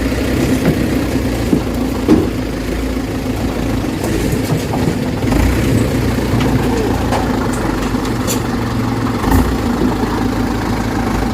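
Dump truck engine running steadily at low revs, with occasional knocks and rattles from the truck.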